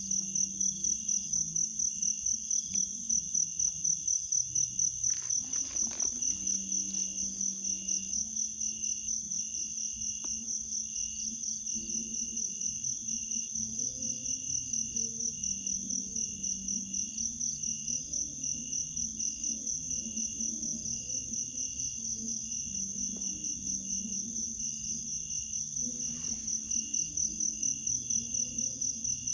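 Insect chorus, crickets calling in a steady, fast-pulsing high trill, with a faint lower drone of other calls underneath.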